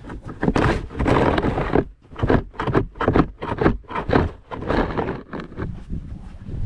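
Snow shovel scraping and crunching through snow in quick, irregular strokes, over a low rumble of wind on the microphone.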